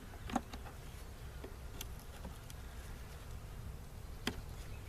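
Faint buzzing of a few honey bees flying around an opened, dead hive, bees the beekeeper takes for robbers from other hives, with a few sharp clicks.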